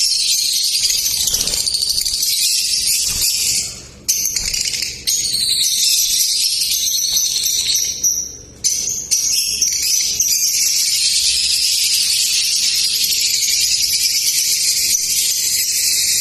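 Lovebirds chirping continuously in a dense, shrill, high-pitched chatter, with a few brief pauses around 4, 5 and 8 seconds in.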